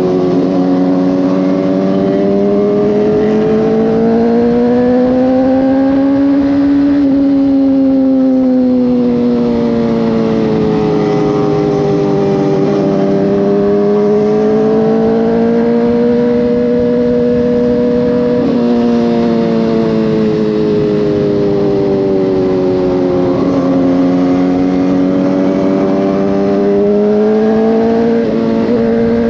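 Motorcycle engine running steadily under way, its pitch rising and falling slowly over several seconds as the throttle is opened and eased, with a few brief breaks in the tone.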